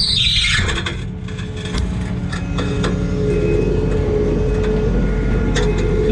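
Skid steer's diesel engine and hydraulics running steadily under work. A high squeal falls away in the first half second, and scattered short knocks and scrapes from the bucket working concrete follow.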